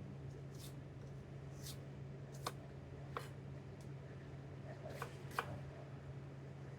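A handful of light, irregular knocks and taps of a knife and onions on a wooden cutting board during onion prep, over a steady low hum.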